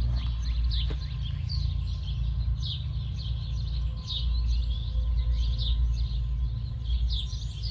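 Small birds chirping repeatedly over a steady low hum, with a single click about a second in.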